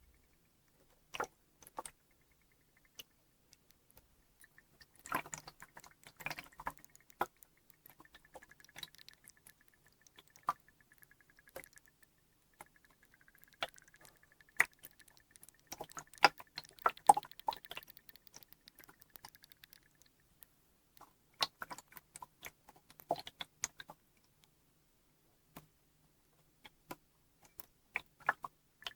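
Water sounds made close up: sparse, irregular drips, plinks and small splashes in loose clusters, with a faint high steady tone through the middle stretch.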